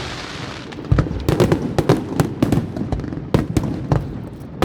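Aerial fireworks shells bursting overhead: a rapid series of sharp bangs, thickest from about a second in, over a low rumble.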